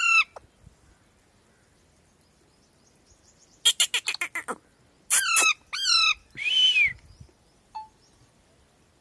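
Parrot calling. A short call comes right at the start, then about three seconds of quiet. After that comes a quick run of short chirps, two longer pitched calls, and a harsh squawk.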